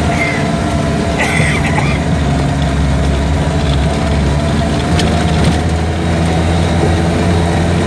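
Vehicle engine running steadily while driving up a rough dirt track, heard from inside the cabin, with a couple of knocks about five seconds in.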